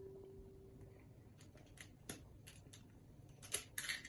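Faint scattered clicks and taps of an egg being cracked and opened into a bowl, with a brief rustling scrape near the end.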